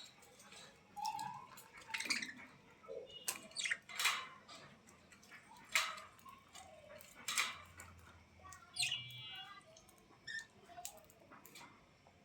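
Small animals making scattered short squeaks and chirps among irregular clicks and taps, with one squeak falling in pitch near the end.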